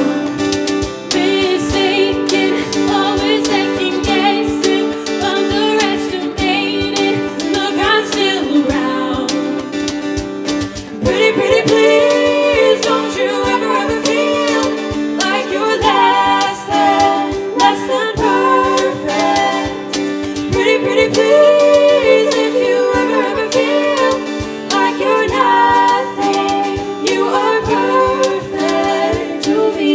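Show choir singing a pop song in harmony, accompanied by guitar.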